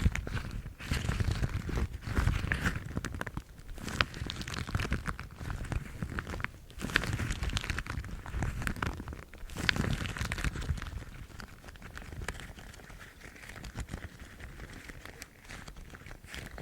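Yellow household rubber gloves rubbed and scratched, making irregular rubbing and scratching noises in uneven strokes that grow softer over the last few seconds.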